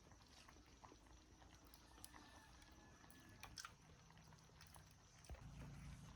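Near silence: faint scattered clicks and rustles, with a low hum coming in near the end.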